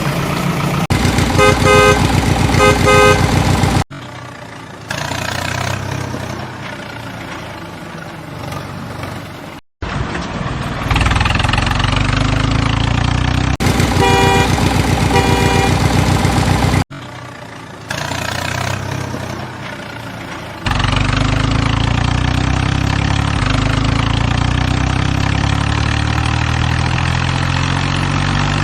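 Tractor engine and horn sounds in abruptly cut segments. There are runs of short, quick horn toots near the start and again about halfway, and a steady engine rumble in the last third.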